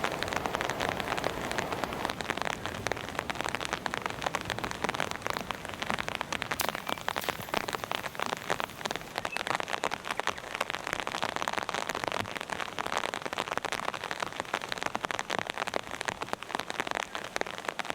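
Steady rain falling, a dense patter of many drops at an even level.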